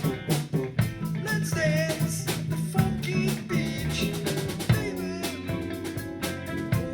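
Rock and blues band playing live in a rehearsal room: a drum kit with snare rimshots and bass drum keeps a steady beat under a bass line, with a wavering lead melody above. About five seconds in a loud hit lands and the drums drop back, leaving held chords ringing.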